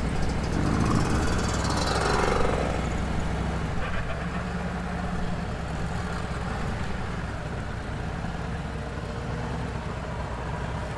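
Motorcycle engine running steadily at low speed while being ridden, heard close up from the bike. There is a brief swell of extra noise in the first couple of seconds.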